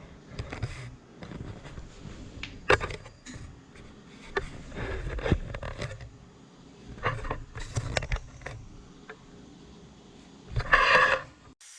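Hand work on a bicycle disc brake: scattered clicks, knocks and scrapes, with a louder scraping burst lasting about half a second near the end.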